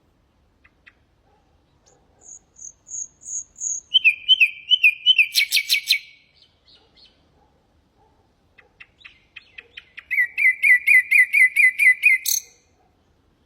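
Common nightingale singing two phrases: a series of high whistled notes swelling in loudness, then lower repeated notes running into a rattle; after a short pause, a second phrase of rapid repeated notes, about four or five a second, that cuts off suddenly.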